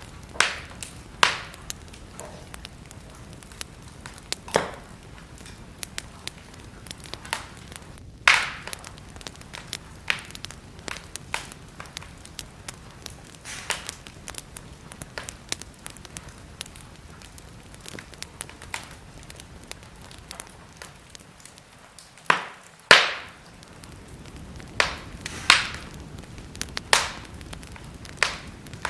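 Wood fire crackling in a fireplace: a steady low hiss with irregular sharp pops and snaps, a few of them loud, including two close together a little after twenty seconds in.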